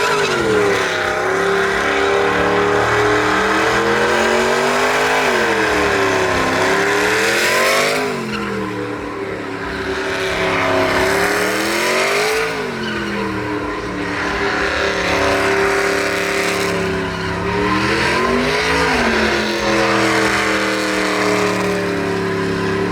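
A truck's engine revving hard in a burnout, its pitch climbing and falling back again about four times, over the continuous hiss and squeal of spinning tyres.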